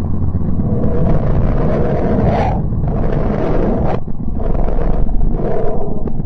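Sonified recording presented as a planet's emitted sound: a loud, continuous rumbling roar with surges of hiss about every second and a half.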